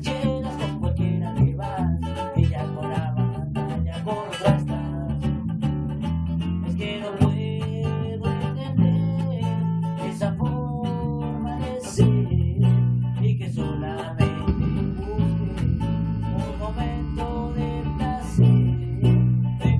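Rock band playing a song, strummed guitar over bass guitar.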